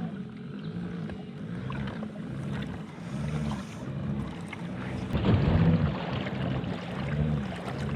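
A boat on the water: a low hum that pulses evenly about every two-thirds of a second, swelling louder about five seconds in.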